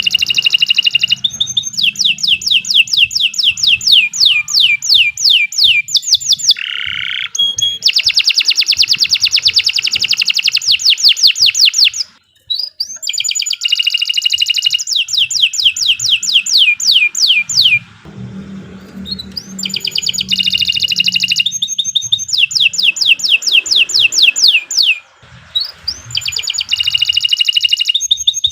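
Domestic canary singing a long song of fast trills, each phrase a rapid run of identical rising notes. The song breaks briefly twice, once about halfway through and again near the end.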